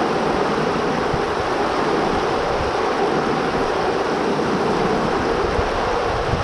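Heavy rain pouring steadily, with strong wind gusting against the microphone and a low, uneven rumble.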